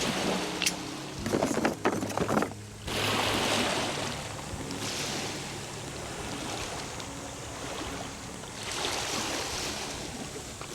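Sea waves washing onto the shore, the surf swelling and fading several times. A few sharp clicks and knocks in the first couple of seconds.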